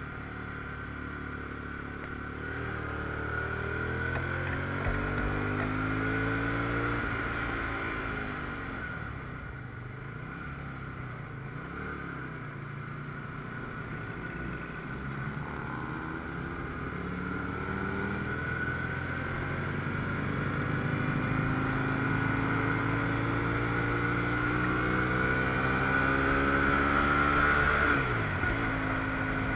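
Sport motorcycle engine pulling under acceleration, heard from the rider's position. Its pitch climbs, drops suddenly at a gear change about seven seconds in, then climbs again for a long stretch to another sudden drop near the end.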